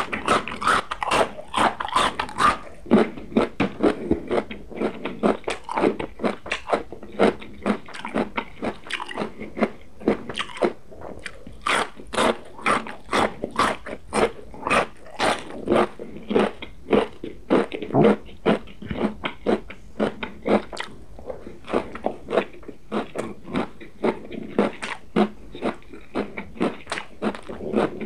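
Close-miked crunchy chewing of vegetables: steady, crisp crunches, about two to three a second.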